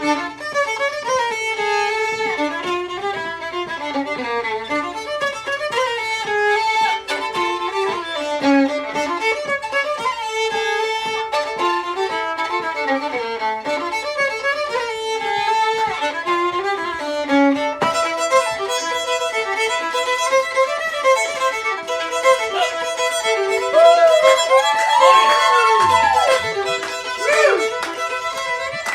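Fiddle playing an instrumental break in a live song, a quick melodic line moving from note to note. About two-thirds of the way through it changes to longer held notes, with a wide sliding note near the end.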